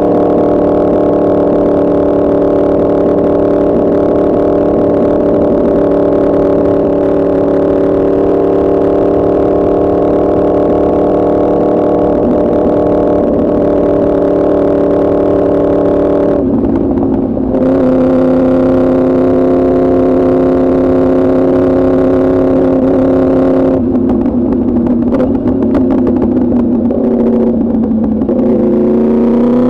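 Yamaha R1's crossplane inline-four running through an Arrow Pro Racing exhaust at a steady cruising note that sags slowly. About halfway through the pitch drops to a lower steady note, eases down further, then starts to rise again at the very end.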